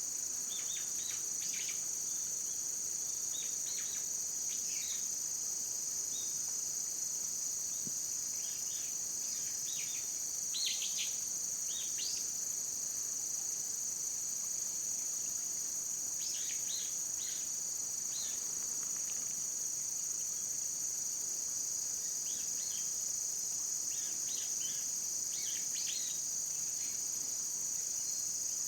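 Steady, high-pitched chorus of singing insects, with short, high chirps coming in small clusters every few seconds.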